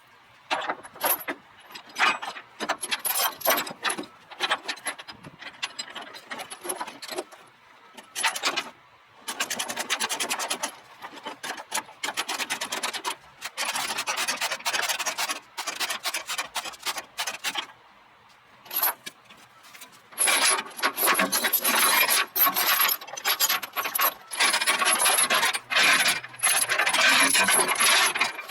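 Steel tie-down chain rattling and scraping in irregular bursts as it is dragged and thrown, links clinking against metal, with longer stretches of continuous rattling near the end.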